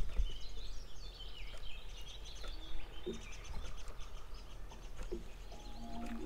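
Songbirds singing: many short chirps and warbling phrases, over a steady low hum. Near the end a few held musical notes come in.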